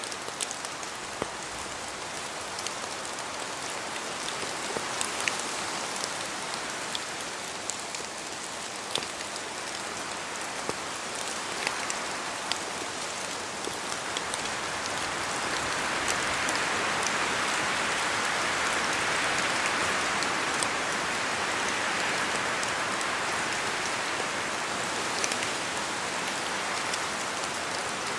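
Steady rain in a forest, with single drops falling from the trees ticking sharply here and there over the hiss. About halfway through the rushing swells louder for several seconds, as wind moves through the wet trees, then eases a little.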